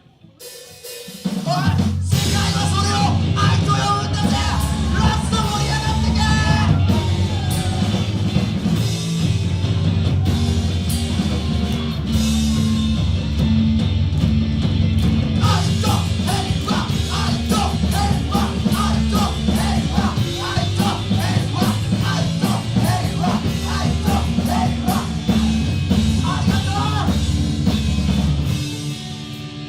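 A live rock band of electric guitars, bass, drums and keyboard starts a song about a second in and plays loudly, with shouted or sung vocal lines over it.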